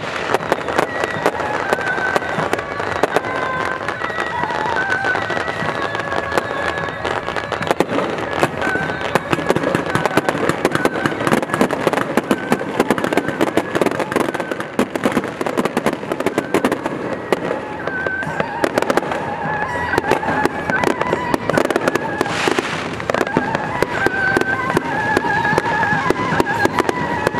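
Firecrackers going off in a long, dense crackle of rapid bangs, with music of short held notes sounding through it.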